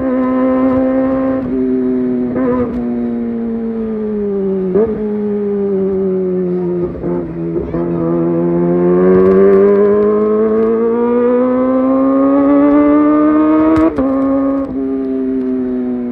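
Kawasaki ZX-25R's 250 cc inline-four running through a Leovince GP Evo high-mount exhaust. The engine note sags for several seconds, climbs steadily for about six seconds, and then steps down sharply about fourteen seconds in.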